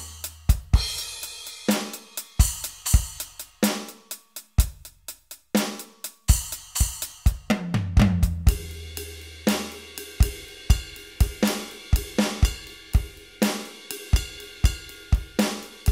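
Roland SPD-SX Pro sampling pad playing electronic drum samples: sharp snare, cymbal and hi-hat hits over a deep, long bass-drum boom that drops in pitch. From about halfway through, a sustained pitched layer plays along under the hits.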